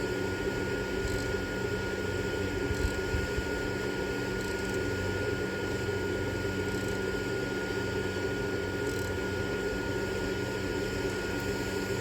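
A steady machine hum with a constant high whine, unchanging throughout.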